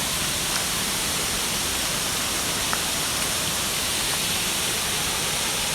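Waterfall rushing: a steady, even noise of falling water, with a faint small click about three seconds in.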